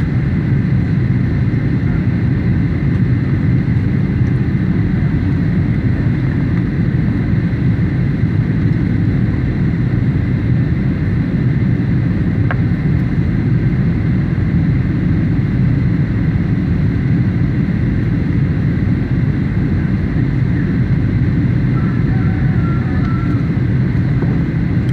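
Boeing 737 airliner's engines and airflow, a loud, steady low rumble that does not change.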